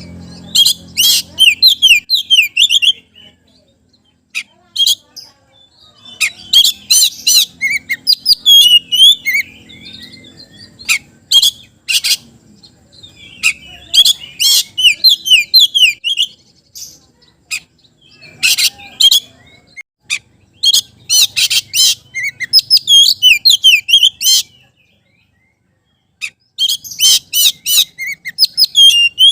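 Oriental magpie-robin (kacer) singing loudly in repeated bursts of rapid, high, sharply gliding whistled and chattering phrases, with short pauses between them and one longer pause near the end.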